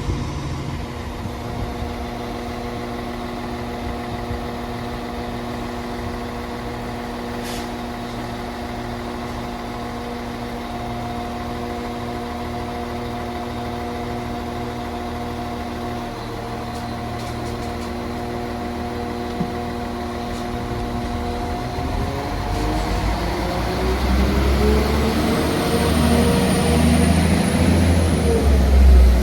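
Train standing at the platform with a steady hum, then pulling away: about two-thirds of the way in, its pitch starts to rise and a heavy low rumble builds as it gathers speed.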